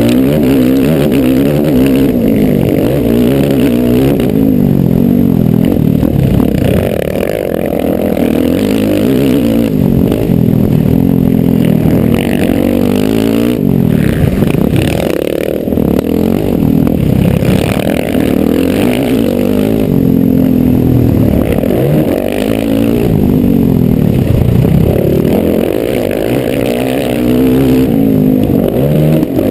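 Motocross bike engine revving hard, its pitch climbing and dropping over and over as the rider accelerates, shifts and slows for corners, heard close up from on the bike.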